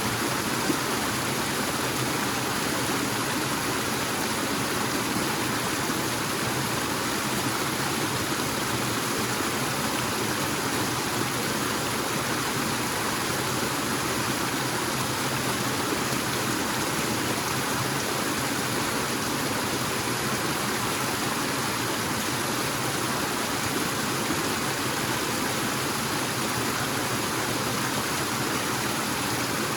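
Forest waterfall and its stream, water rushing steadily and evenly.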